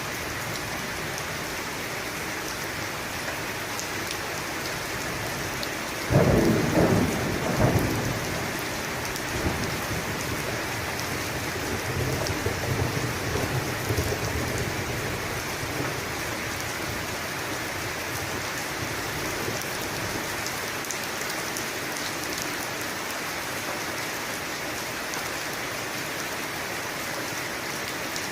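Steady heavy rain hissing, with a sharp thunderclap about six seconds in that rolls into a low rumble and fades away over the next ten seconds.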